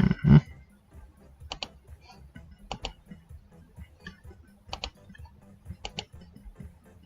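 A thump at the start, then a series of sharp double clicks from someone operating a computer, about four pairs a second or more apart.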